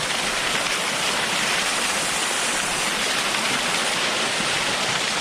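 Waterfall close by: a steady, loud rush of falling water, enough to drown out a voice.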